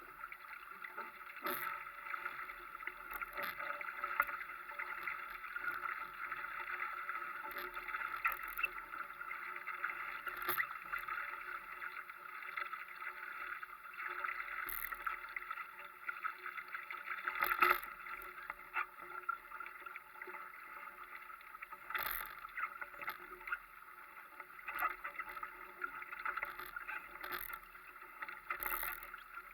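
Europe-class sailing dinghy under way: a steady hiss of water along the hull, with irregular knocks and slaps every second or two.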